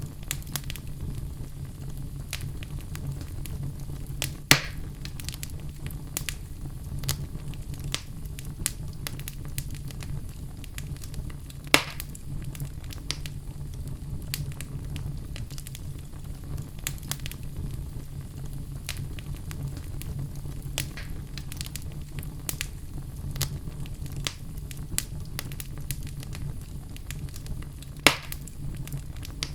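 Wood logs burning in a fireplace: a steady low rumble of flame with constant small crackles and three louder, sharper pops spread through the stretch.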